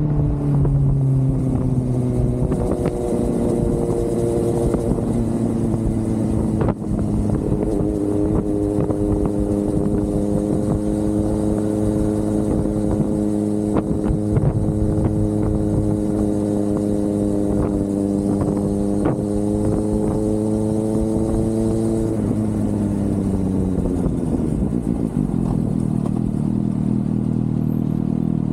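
Suzuki GSX-S inline-four motorcycle engine on the move. Its note drops at first, then holds a steady pitch at cruising speed for most of the time, falls again as the bike slows about three quarters of the way through, and settles into a low, even running sound near the end.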